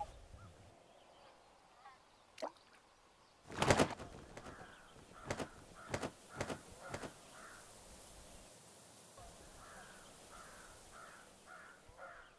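Bird sound effects: a loud, short rushing burst about four seconds in, a few sharp claps after it, and near the end a run of short, rough bird calls about twice a second.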